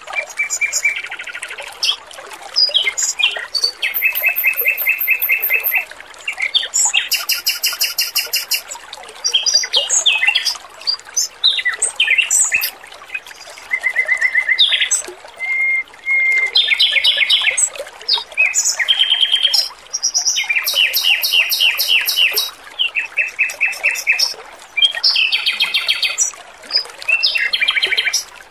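Male Pekin robin (red-billed leiothrix) singing: one short phrase of fast repeated notes after another, some low and some very high-pitched, with brief pauses between, over a steady trickle of running water.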